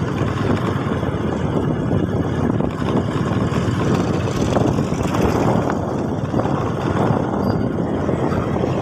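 Motorbike engine running steadily, a continuous rough drone with no pauses.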